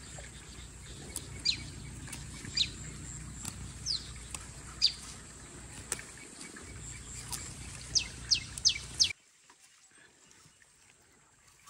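Bird chirps: short, high, sharply falling peeps, scattered at first and then four in quick succession, over a steady low rumble. The sound drops away abruptly about three-quarters of the way through.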